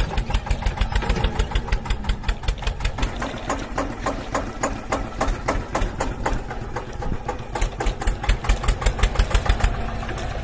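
Mini tractor's engine running steadily as it drives along, a rapid even chugging of about seven or eight beats a second.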